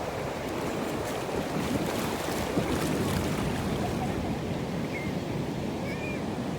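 Ocean surf breaking and washing up the beach, with wind on the microphone.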